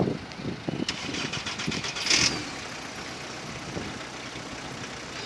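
Street traffic with a car engine idling. About a second in there is a quick run of ticks, about eight a second, and just after two seconds a short hiss, the loudest moment. After that a steady low hum carries on.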